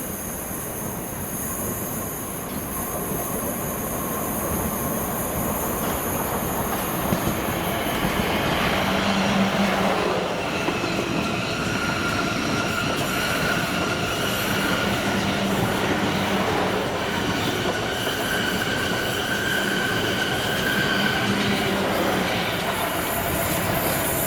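A train running through a station, its rumble growing louder over the first several seconds. From about ten seconds in, a high-pitched wheel squeal comes and goes over the rumble.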